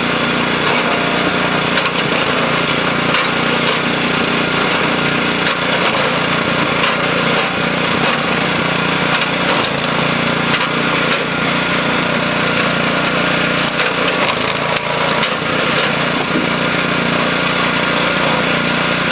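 Small gasoline engine of a Super Split flywheel log splitter running steadily, with occasional sharp cracks and knocks as logs are split.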